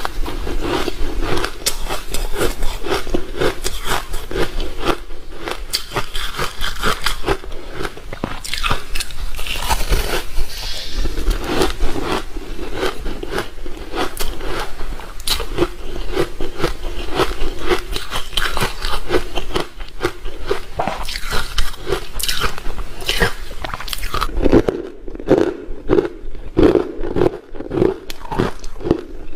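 Close-up crunching and chewing of ice in the mouth: a dense run of sharp crunches throughout. About 24 seconds in the recording changes, and the crunches come as a more evenly spaced series.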